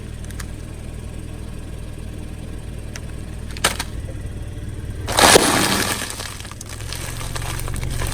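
A car's engine running low and steady, then about five seconds in a sudden loud crunch as the tyre crushes something brittle. The crunch is preceded by a couple of small cracks.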